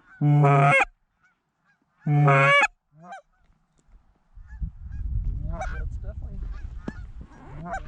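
Two loud, short goose honks, about two seconds apart. From about four seconds in comes a steady low rumble, with fainter honks from a flock over it.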